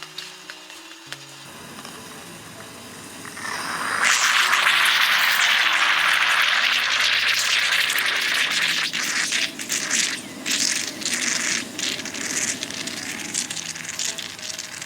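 Meat sizzling on a hot griddle pan: the sizzle jumps to a loud hiss about four seconds in, then breaks into crackling and spitting. Soft background music plays underneath.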